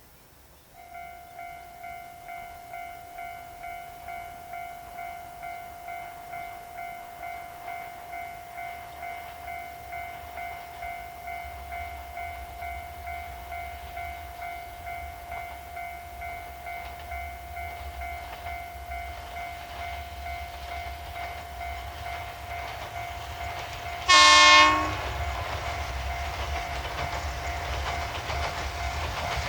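Level-crossing warning bell ringing in a steady repeating tone while a rail vehicle approaches with a rumble that grows louder. About 24 seconds in, the vehicle gives one short, loud horn blast, then rolls on past.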